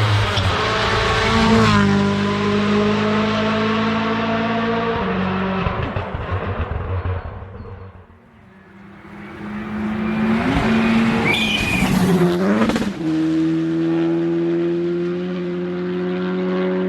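Rally car engines at full race pace: one car's engine note falls away into the distance, then another comes in loud, its revs jumping up and down through rapid gear changes as it passes, followed by a steady high engine note to the end.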